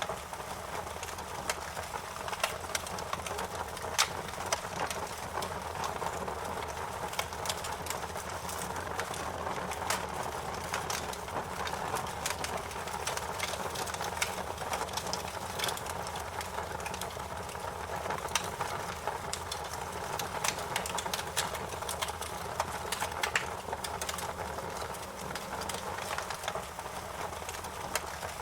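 Wood fire crackling steadily, with irregular sharp pops and snaps over a low hiss of the flames.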